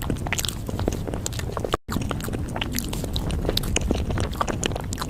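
Close-miked eating of a matcha dessert: biting and chewing with many quick, wet mouth clicks and small snaps. The sound drops out for a split second just under two seconds in.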